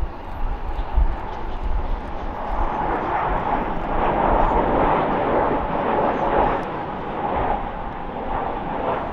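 Boeing 737 MAX 8 airliner on landing approach, its CFM LEAP-1B turbofans making a rushing jet noise that swells to a peak about halfway through and then eases off. A low wind rumble on the microphone runs underneath.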